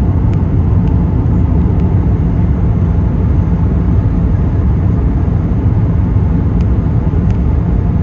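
Steady, loud low rumble of an Airbus A380 heard from inside the passenger cabin, engines and airflow, with a few faint ticks.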